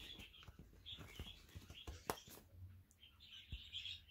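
Faint chirping of small birds with scattered light clicks, one sharper click about two seconds in.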